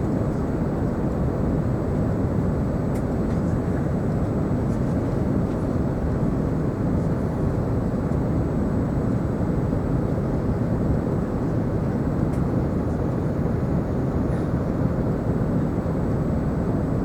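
Steady rumble of engine and airflow noise heard inside the cabin of a British Airways Airbus A380 airliner, even and unbroken throughout.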